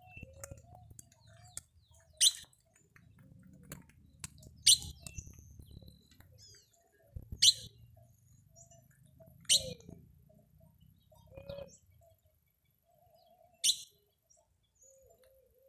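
A bird giving short, high chirps, five of them spaced a couple of seconds apart.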